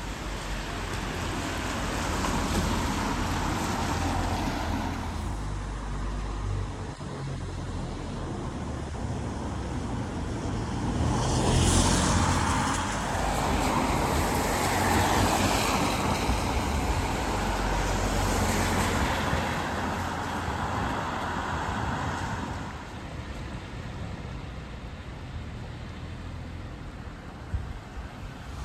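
Road traffic on a city street: cars passing one after another in swells, the loudest about halfway through, over a steady low rumble.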